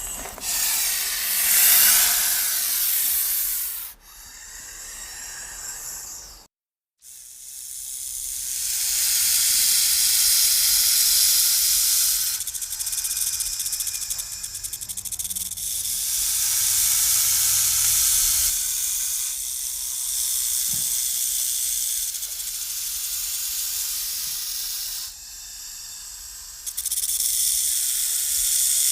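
Snakes hissing: long, airy hisses in a run of joined segments, with a brief dead silence about six and a half seconds in.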